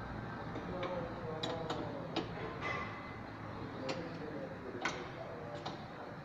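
Irregular clicks and knocks from a Chevrolet Prisma's suspension, a fault noise that shows up over road undulations, against a low steady background noise.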